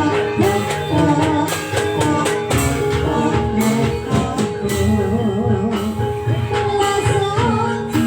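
Live Javanese jaranan ensemble music: steady drum and percussion strokes under a wavering, sustained melody line with singing.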